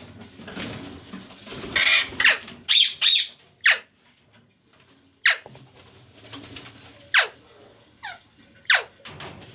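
Pet parrot calling: a few harsh squawks in the first few seconds, then about five short, sharp calls, each sweeping quickly down in pitch.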